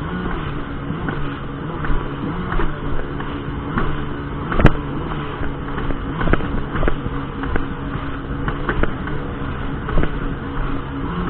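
Jet ski engine running steadily at an even pitch. Irregular short knocks cut through it, the sharpest a little before halfway.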